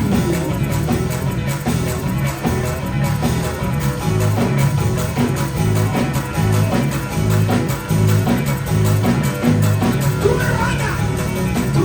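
Live gospel band music with electric guitar, bass and drums, the bass notes pulsing steadily.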